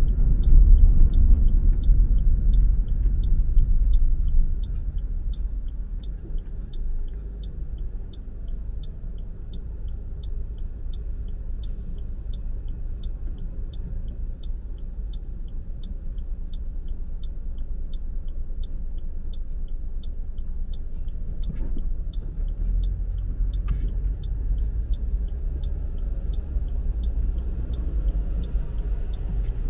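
Car being driven on city roads: a steady low rumble of engine and road noise, louder for the first four seconds or so and then quieter. A faint, regular high tick about twice a second runs throughout.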